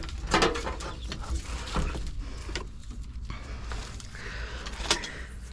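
Scattered light clicks and rustles of wiring and plastic parts being handled, over a low steady hum.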